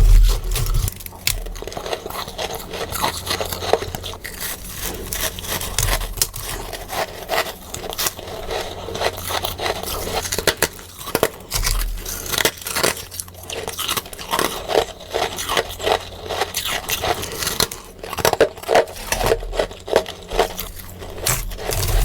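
Close-miked crunching and chewing of freezer frost: dense, irregular crackles and crunches, sped up, with a few low thuds among them.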